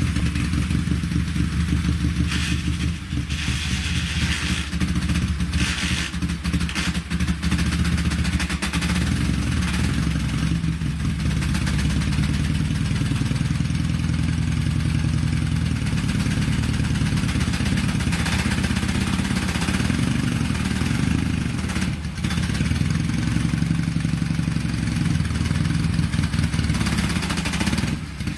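Dnepr-12 sidecar motorcycle's flat-twin engine running steadily as the bike sets off in reverse on its first ride, with bursts of rattling noise in the first several seconds.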